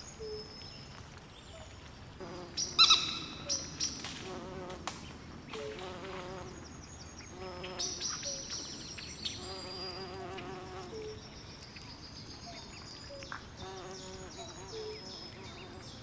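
Night swamp chorus: frogs calling in pulsed, wavering trills and short low notes repeated every second or two, over rows of high, repeated insect chirps. A louder sharp call stands out about three seconds in.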